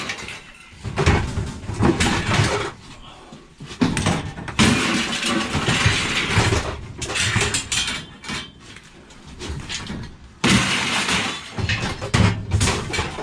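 Scrap being handled and thrown: a series of clattering crashes and bangs, with longer rattling stretches around five to six seconds in and again from about ten and a half seconds.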